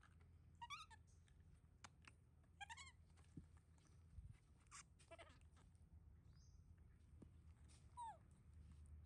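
Faint, short squeaking calls of a baby monkey, four in all, the last sliding down in pitch, with a few faint clicks between them.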